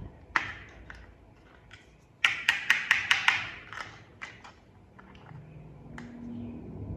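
Sharp clicks and taps of small plastic toy parts being handled and fitted together. A quick run of about eight clicks comes around two seconds in, with scattered single clicks before and after.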